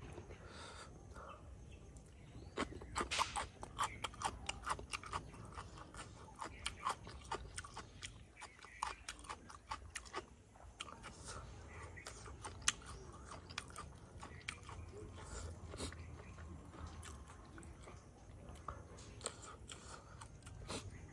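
A person chewing crunchy food with the mouth close to the microphone: a run of crisp crunches and wet mouth clicks that comes thick and fast from about two and a half seconds in, then grows sparser in the second half.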